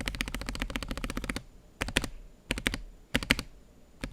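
Typing on a TKC Portico 65 gasket-mount mechanical keyboard with JWK Lagoon linear switches on an FR4 plate. A fast run of keystrokes lasts about a second and a half, followed by three short bursts of a few keys each.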